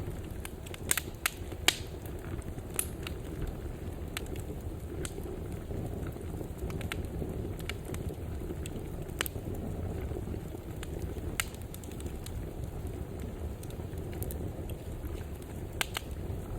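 Wood fire burning in a fireplace: a steady low rumble of the flames with sharp crackles and pops scattered through it, a quick cluster of pops about a second in.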